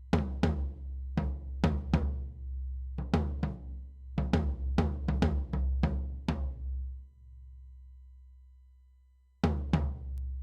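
Drum kit track in a studio mix, kick and snare hits in a groove over a long low boom from the kick. The playing stops about seven seconds in, leaving the low tail to die away, and comes back in near the end.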